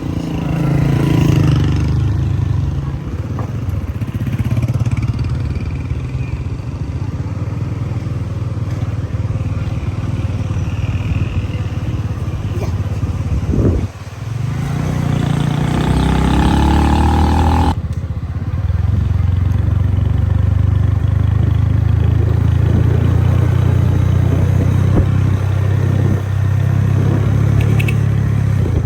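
A motor vehicle engine running steadily, with a rising rev about halfway through. The sound breaks off abruptly twice in the middle.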